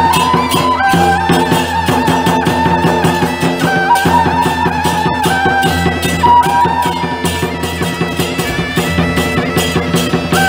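Traditional temple-procession music: a loud, reedy wind melody held in long notes over fast, steady percussion strokes.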